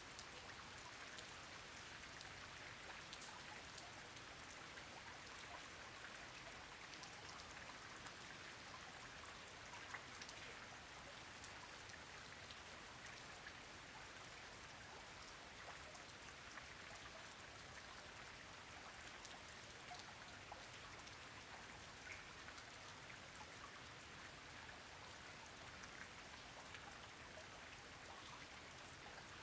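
Quiet, steady rain: an even hiss of many small drops hitting a surface, with scattered single drop ticks and a slightly louder one about ten seconds in.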